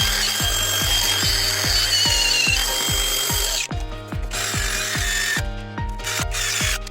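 Cordless disc grinder polishing a stainless muffler, its high whine wavering under load, cutting out about halfway through and coming back only briefly. Background music with a steady beat plays throughout.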